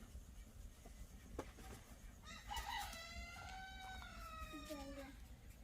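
A rooster crowing once, a single drawn-out call of about three seconds that starts about two seconds in and drops in pitch at the end.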